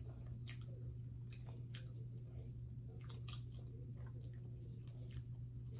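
Close-miked eating: chewing, with wet mouth smacks and clicks coming irregularly, a few a second, over a steady low hum.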